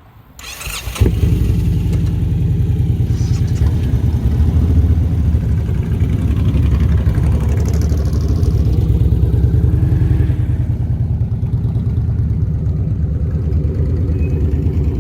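Motorcycle engine cranked by its starter and catching about a second in, then running steadily.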